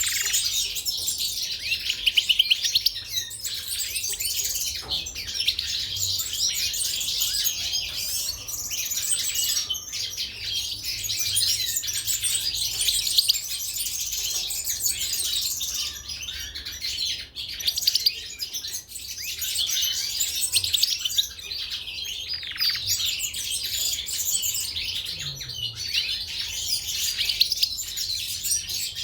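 Caged European goldfinches and canaries singing: a dense, continuous stream of rapid high chirps and warbled song.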